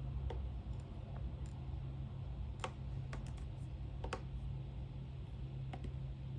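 A handful of separate sharp clicks and taps from desk work, about six spread unevenly, the loudest two a little past the middle, over a steady low hum.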